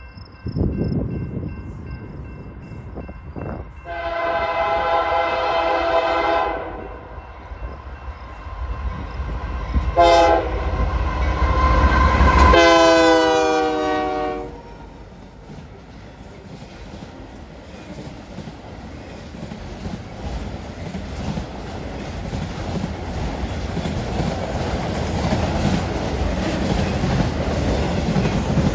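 Passing train's locomotive sounding its multi-note air horn: a long blast, a short one, then a final long blast whose pitch drops as the locomotive goes by. After the horn, the wheels of the train's cars rumble and clack over the rails, growing steadily louder.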